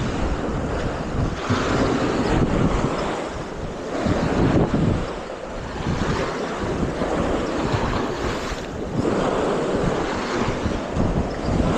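Waves washing on the beach, swelling and easing several times, with wind buffeting the microphone in a low rumble.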